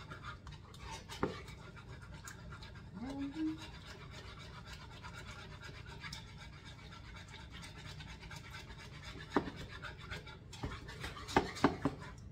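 Wire whisk scraping and clicking against a bowl, hand-whisking a softened-butter mixture, with a run of sharper clicks near the end. A brief vocal sound about three seconds in.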